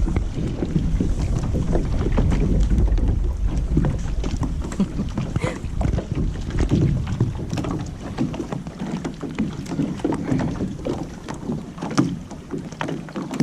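Wind buffeting the microphone, heavier in the first half and easing after about eight seconds, with scattered knocks and rustles from handling a small sailboat's sail and rigging.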